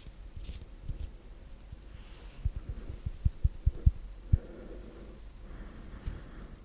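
ASMR hand sounds close to the microphone: a quick run of about eight soft, low thuds in a row, like fingers or palms patting, over about two seconds, between quieter soft rubbing.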